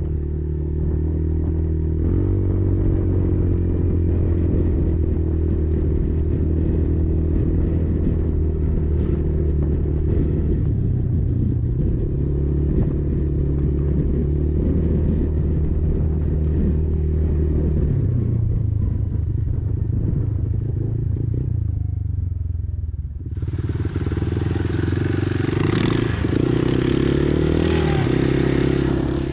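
Kymco Maxxer 300 quad's single-cylinder four-stroke engine running under load while riding, its pitch shifting as the throttle changes. About 23 seconds in it drops off briefly, then comes back louder and harsher as it revs up.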